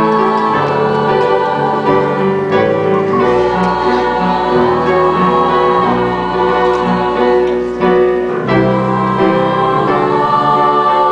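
Live stage-musical singing with keyboard accompaniment: long held sung notes that waver slightly, some gliding up and down, over sustained chords.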